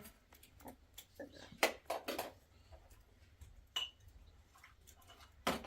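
Scattered light clinks and knocks, a few a second, with a brief ringing ping about four seconds in and a louder knock near the end.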